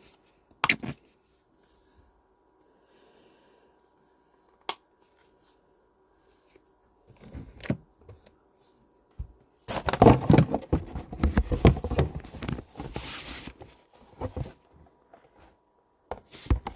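Packaging being handled and opened by hand: a few sharp clicks and taps, then, about ten seconds in, several seconds of rustling and tearing with scattered knocks, and a couple more clicks near the end.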